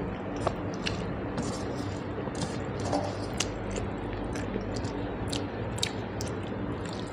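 A person chewing a mouthful of rice with dal and fish curry, with frequent short wet mouth smacks and clicks.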